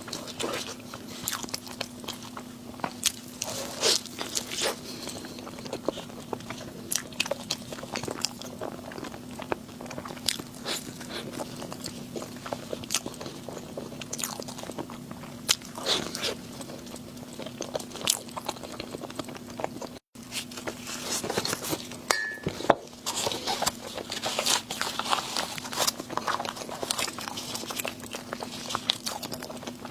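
A person biting and chewing crunchy food close to the microphone, with many sharp, irregular crunches over a steady low hum. The sound cuts out for a moment about two-thirds of the way through.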